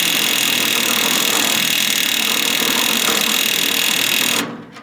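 Ford NAA tractor's starter cranking the engine on its 6-volt system, turning it over slowly, then stopping sharply near the end.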